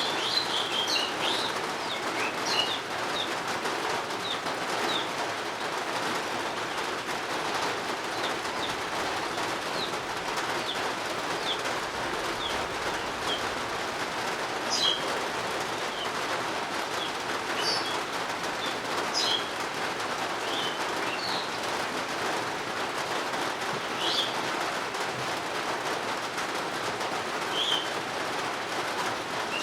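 Steady rain falling, with birds giving short high chirps over it now and then, a cluster of them at the start.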